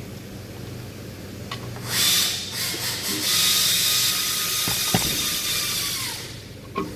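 Compressed air hissing loudly from a pneumatic tool for about four seconds, with a steady whine that drops in pitch as it stops; a single sharp tap partway through.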